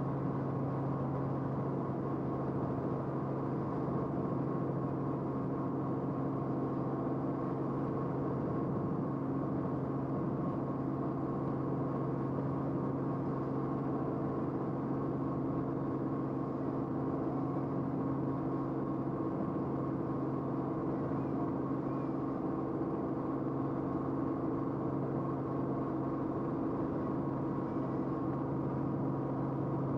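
Steady aircraft engine drone heard from inside the cabin: an unchanging hum with a strong low tone and several higher fixed tones over a rushing noise.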